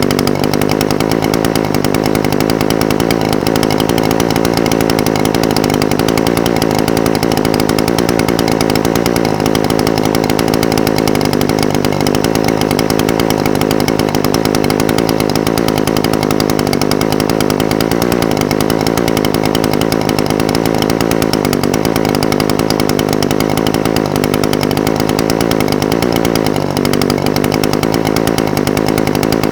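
Echo SRM-420TES brush cutter's two-stroke engine idling steadily, its pitch wavering only slightly.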